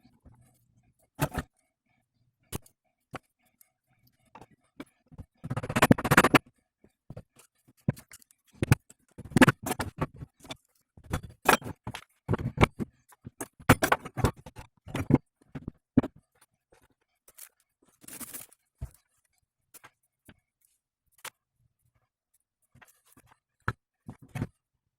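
Irregular metallic clinks, knocks and scrapes of hand tools and metal parts being handled during work on a car's front driveshaft. The strokes come thickest about six seconds in and again from about nine to fifteen seconds in.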